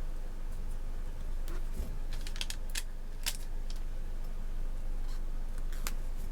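A few scattered light clicks and taps, several close together midway, over a steady low hum.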